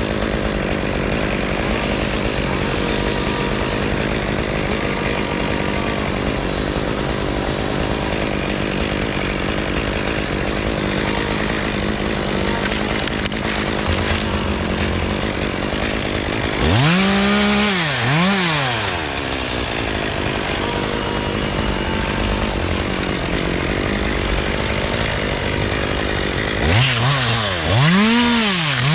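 Gas chainsaw running steadily at low speed, then revved up and down in quick swells about two-thirds of the way through and again near the end.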